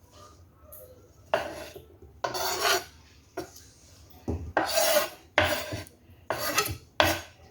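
Rasping, scraping strokes, about eight in an irregular series, each a fraction of a second long, of something rough rubbed back and forth.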